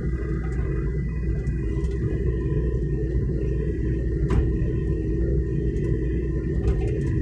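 Hitachi mini excavator's diesel engine running steadily, with a constant whine over the rumble, and a single sharp knock about four seconds in.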